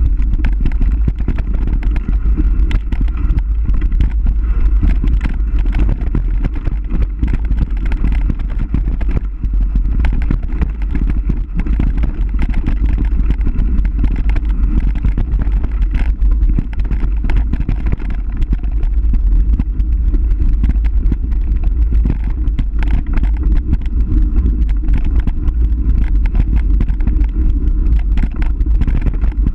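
Continuous low rumble with rapid rattling and clatter throughout: the running noise of a downhill ride.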